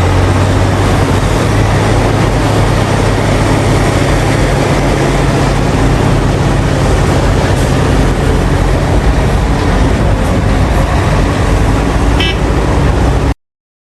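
Heavy diesel mining machinery running steadily, a deep engine drone under a constant wash of mechanical noise, with a brief high chirp near the end before it cuts off suddenly.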